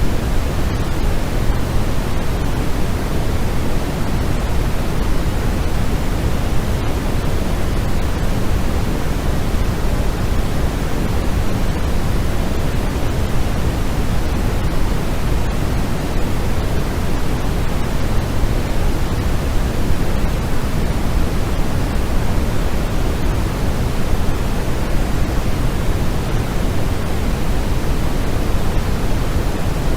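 Steady synthetic white noise for sleep, an even hiss with no changes, heavier in the low end than at the top.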